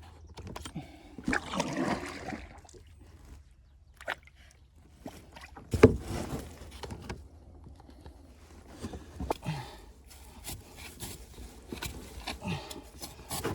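A kayak being paddled and moved about on the water: paddle strokes splashing and sloshing, with scattered clicks and knocks against the hull. The loudest knock comes about six seconds in.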